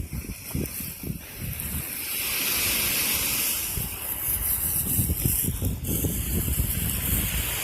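Wind buffeting the microphone, with the hiss of surf washing onto a beach that swells about two seconds in and again near the end.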